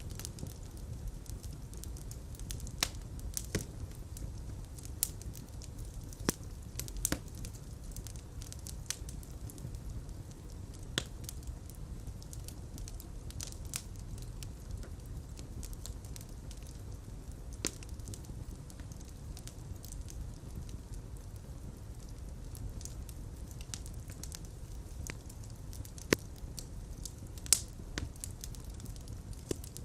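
Fire crackling in a fireplace: a steady low rumble of flames with scattered sharp pops, a few louder snaps standing out.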